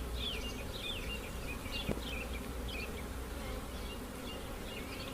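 Honey bees buzzing in a steady hum around an open hive box as its brood frames are worked, with many short, high, falling chirps over the hum.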